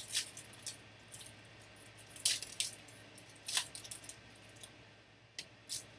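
Trading cards and their packaging being handled: a scattered series of short crinkles and clicks, a couple of them sharper about two and three and a half seconds in, over a faint steady room hum.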